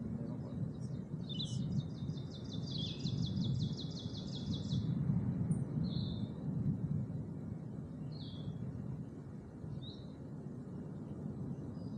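A songbird singing a rapid trill of repeated high notes for about three seconds, then giving a few single short chirps, over a steady low rumble.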